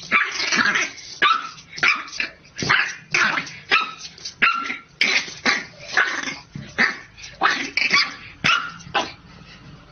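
A dog barking in a quick, steady run of short barks, two or more a second, stopping about a second before the end.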